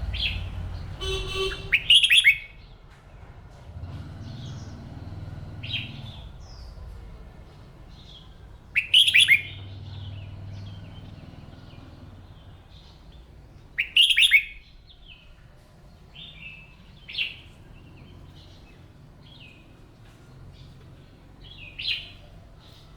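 Red-whiskered bulbul singing short, loud, warbling phrases, the loudest about 2, 9 and 14 seconds in, with softer chirps between.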